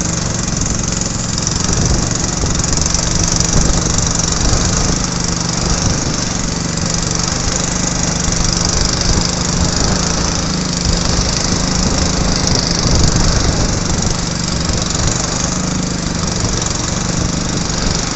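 A small boat's engine running steadily with a low, slightly wavering drone, under a constant rush of strong wind and rough water.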